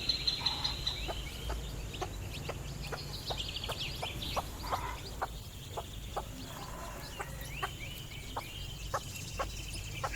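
Chickens clucking: short sharp clucks at irregular intervals about every half second, over a low steady hum.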